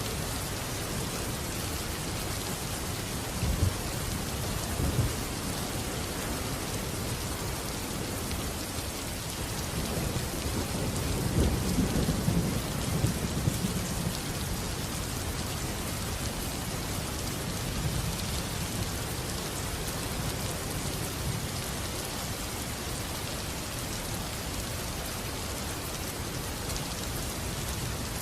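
Steady heavy rain with rolling thunder: two short low rumbles a few seconds in, then a longer, louder roll of thunder at about the middle.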